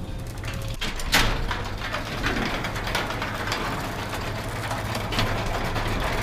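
Belt-drive garage door opener running a sectional garage door on new nylon rollers, with a steady low motor hum and scattered light clicks and rattles from the door sections. A sharper clack comes about a second in.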